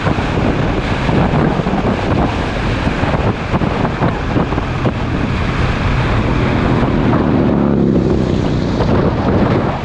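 Heavy wind rush buffeting a motorcycle-mounted action camera's microphone at riding speed, with the motorcycle running underneath.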